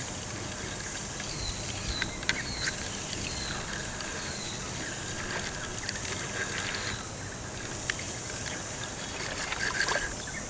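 Outdoor ambience: a steady background hiss, with a few short high chirps repeating for a couple of seconds about a second in, and scattered faint clicks.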